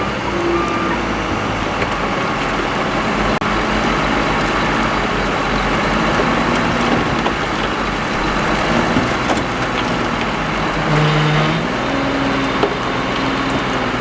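Heavy earthmoving machinery working: engines running under load with a continuous dense rumble and clatter of rock and dirt being moved.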